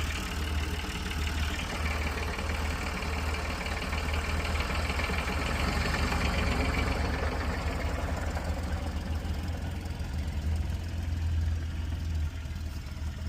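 Old Massey Ferguson tractor engine running steadily while the tractor is driven, backing up.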